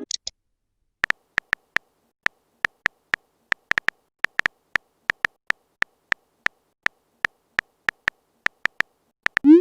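Smartphone on-screen keyboard typing clicks: a run of short, light taps about three to four a second, unevenly spaced, then a short rising swoop near the end.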